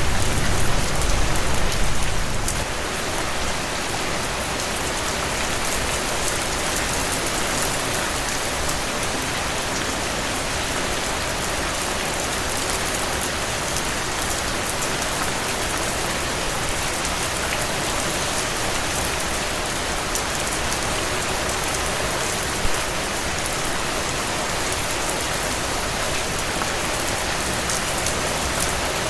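Steady heavy rain falling on a surface, a dense, even hiss of drops. A low rumble underlies it for the first couple of seconds and then fades away.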